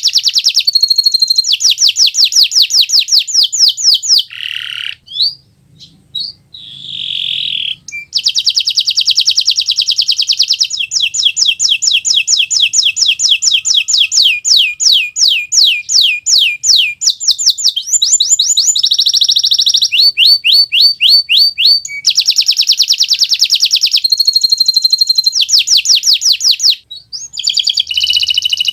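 Domestic canary of the Kenari Nusantara type singing a loud, continuous song of rapid trills, runs of fast repeated high notes changing from one tour to the next, with a brief break about five seconds in.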